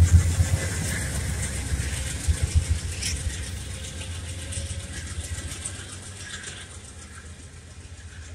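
Amtrak passenger train pulling away, the low rumble of its rear diesel locomotive and wheels fading steadily. A few clacks of wheels over the rails come about two to three seconds in.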